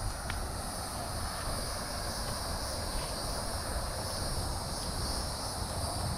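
A steady, high insect chorus buzzing without a break, over a low rumble.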